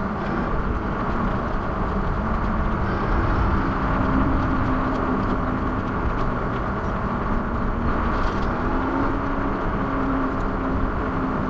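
Steady wind and road noise from riding a bicycle, with a low steady hum coming in a few seconds in.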